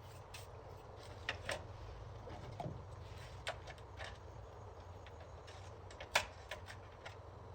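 Irregular light clicks and taps of hand work on a machine, about a dozen, the sharpest a little after six seconds in, over a low steady hum.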